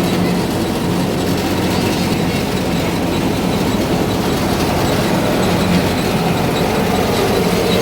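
Fiat 640 tractor's diesel engine running steadily under load, driving a wheat thresher through its belt-driven drum, with a dense, even mechanical clatter over a constant hum.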